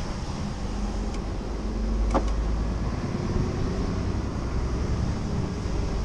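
Scania R490 truck's 13-litre inline-six diesel running while driving, heard from inside the cab as a steady low rumble with road noise, its engine note rising slightly around the middle. A brief tick sounds about two seconds in.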